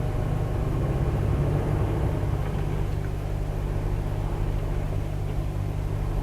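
Volvo truck's diesel engine running steadily under heavy load, pulling the rig at crawling speed through soft sand and mud where the wheels are slipping.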